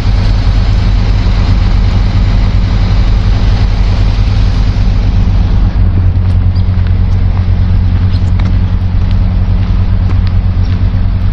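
Heavy machinery engine running steadily nearby, a loud low hum that grows stronger about halfway through.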